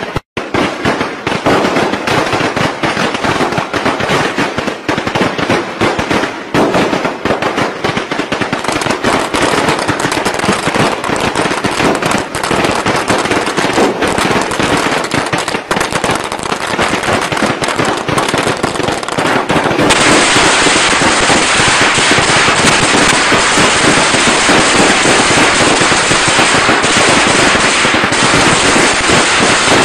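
Long strings of firecrackers going off in a rapid, continuous crackle of sharp pops, with a brief gap just after the start. About twenty seconds in, the crackle turns denser, more even and louder.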